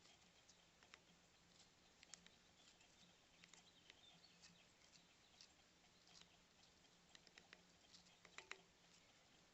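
Faint, irregular taps and clicks of birds pecking at a seed cylinder feeder, with the loudest pair of taps near the end, over a faint low steady hum.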